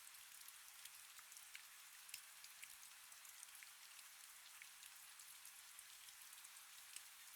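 Faint rain falling: a soft, steady hiss with many small drop ticks scattered through it.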